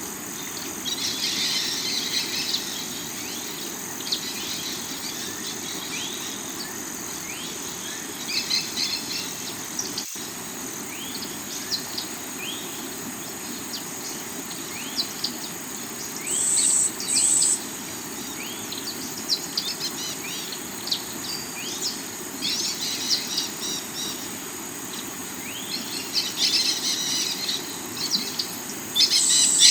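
Steady rush of a rocky river's running water, with small birds chirping and trilling over it in repeated short rising calls. The birdsong is busier near the start and the end, with two brief high notes near the middle.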